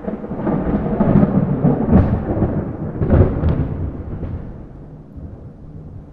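A roll of thunder: a loud low rumble that starts suddenly, surges several times over the first three seconds or so, then slowly dies away.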